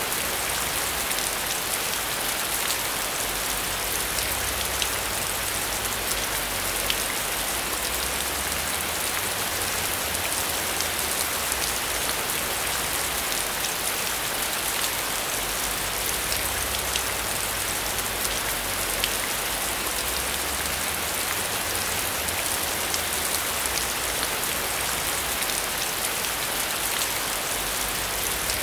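Heavy rain falling steadily: a dense, even hiss dotted with sharp ticks of single drops, over a faint low rumble that swells and fades.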